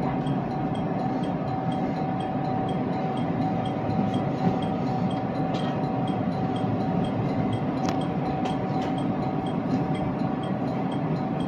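Inside an electric commuter train running slowly: a steady low rumble with a constant hum, and a few faint clicks from the running gear. The train is crawling at restricted speed behind a delayed train.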